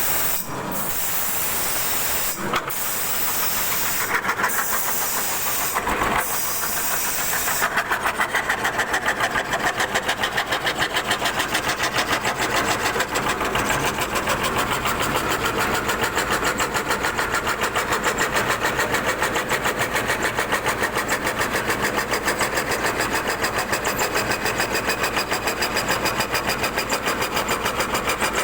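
CNC wood carving router cutting wood: a loud, steady hiss with a few brief breaks in the first seconds, then from about eight seconds in a fast, regular pulsing as the cut goes on.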